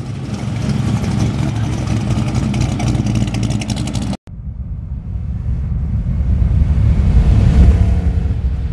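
Chevrolet 350 small-block V8 with headers in a 1936 Chevrolet hot rod, rumbling as the car drives off and pulls away. The sound breaks off for a moment about four seconds in, then the engine is heard again, growing louder toward the end.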